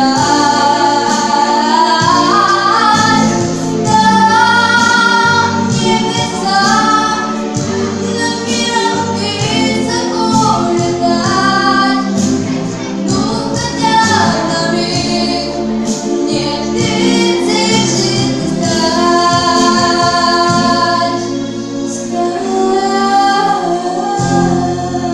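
A female voice singing a melodic song with held, wavering notes over a sustained instrumental backing track.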